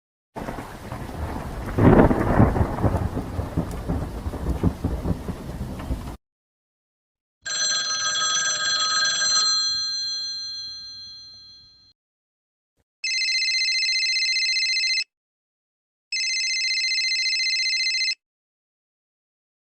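Three sound effects in a row. First a thunder clap, a noisy rumble that swells about two seconds in and stops abruptly after about six seconds. Then a bell-like chime struck once and fading away, and finally a telephone bell ringing twice, two steady warbling rings of about two seconds each.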